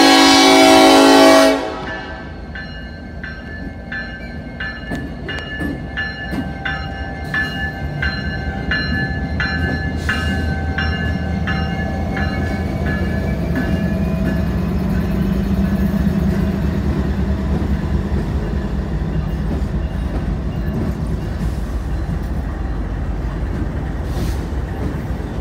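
Norfolk Southern freight train passing a grade crossing: the diesel locomotive's horn blast cuts off about a second and a half in, then the crossing bell dings steadily while the locomotives go by close at hand, their engines' rumble growing loudest through the middle and carrying on as the train rolls past.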